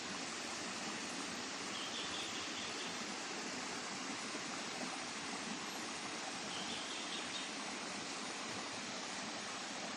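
Steady outdoor rushing noise, with a couple of faint bird chirps about two seconds in and again near seven seconds.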